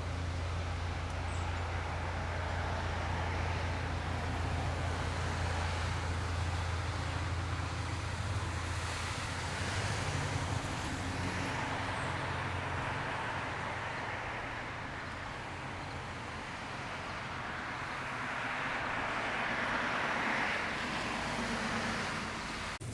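Train passing: a steady low diesel drone that fades about ten seconds in, over a continuous rushing rolling noise that swells again near the end.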